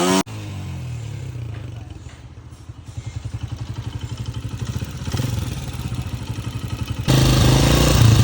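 Heavy motorcycle engine running with an even pulsing beat that dips and then returns, before a louder stretch of running cuts in abruptly near the end. The engine is said to have a misfire ('missing') problem.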